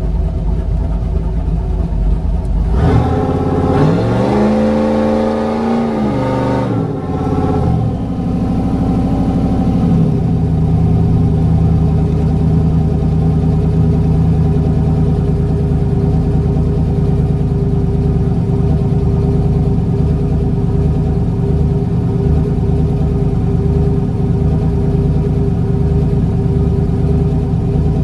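1969 Chevy C10's built 6.0L LQ9 V8 with headers and a Comp cam, heard from inside the cab: it runs steadily, is revved up and back down about three seconds in, blipped again around eight seconds, then settles into a steady, slightly uneven idle.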